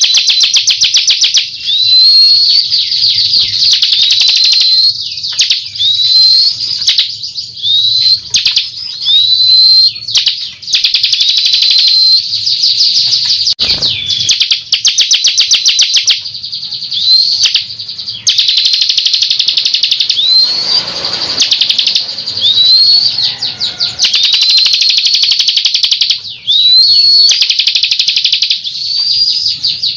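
Ciblek kristal (a prinia) singing, a lure recording: fast, dry rattling trills alternating with short up-slurred whistled notes, roughly one a second, with only brief breaks.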